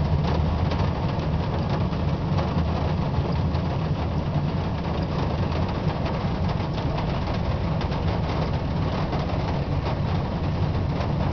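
Steady low rumble of a vehicle heard from inside the cabin, with faint scattered ticks over it.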